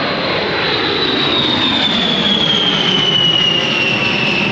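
Jet aircraft passing overhead: a loud, steady roar with a high turbine whine that falls slowly in pitch as it goes by.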